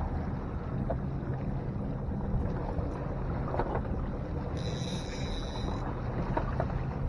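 Fishing boat's engine running with a steady low hum, with wind noise on the microphone. A short high-pitched tone sounds for about a second, a little past the middle.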